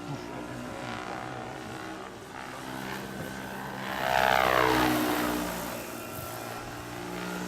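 Electric 1:11-scale RC model Chinook helicopter flying, its tandem rotors driven by one electric motor, giving a steady whine. About four seconds in it gets louder and its pitch falls as it passes close by.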